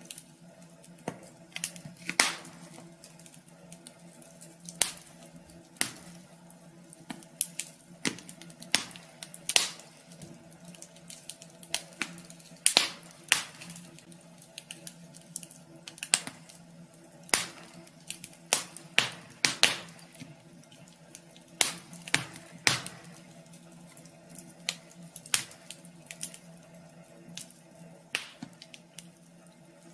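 Wood fire crackling in a wood stove: irregular sharp pops and snaps over a steady low hum.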